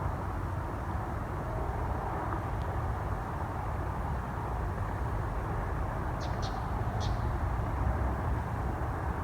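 Steady low outdoor rumble, with a few short high chirps about six to seven seconds in.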